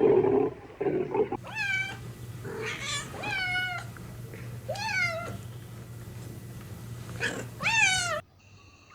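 A cat meowing four times, each meow rising and then falling in pitch, after a short stretch of rougher noise at the start.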